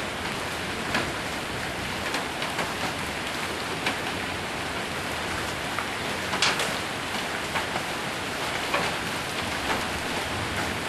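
Heavy rain with hail drumming on a roof: a steady hiss of rain with scattered sharp knocks of hailstones, the loudest about six and a half seconds in.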